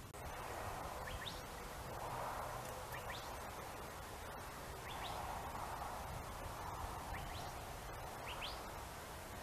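Small birds chirping: short, high, rising chirps, often in quick pairs, every second or two over a steady background hiss.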